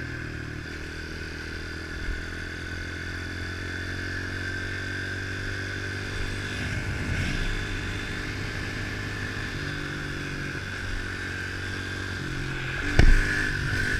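110cc pit bike's single-cylinder four-stroke engine running under way, its pitch shifting a little now and then. A sharp knock about 13 seconds in is the loudest sound.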